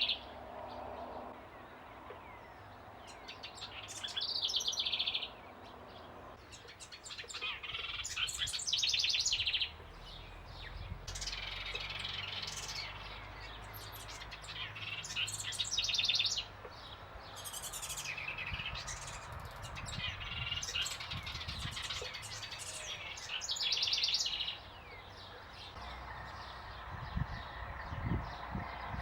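Birds calling in repeated bursts of rapid, trilling chatter, each about a second long, about one every four seconds.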